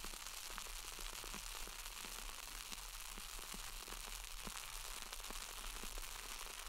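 Michelob Ultra Pure Gold light beer fizzing in a glass, close-miked: a steady carbonation hiss full of tiny irregular crackling pops.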